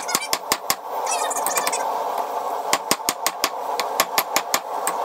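Hand hammer striking a red-hot square steel rod on an anvil, drawing out a taper: quick runs of blows at about six a second, with a pause of about two seconds after the first run. A steady hum runs underneath.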